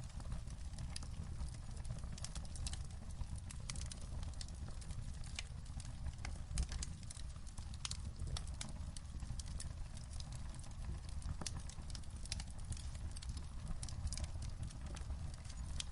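Wood fire crackling in a fireplace: irregular sharp pops and snaps over a steady low rumble, with one louder pop about six and a half seconds in.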